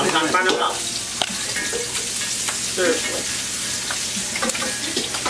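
Crab pieces sizzling in hot oil in a cast-iron skillet, with a metal spatula scraping and clicking against the pan as the pieces are turned.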